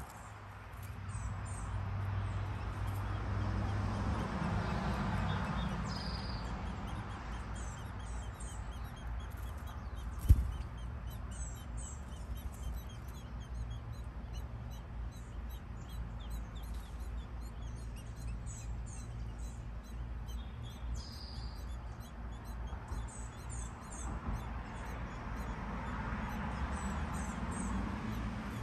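Small birds chirping, many short high notes repeating over a steady low background hum, with a single sharp thump about ten seconds in.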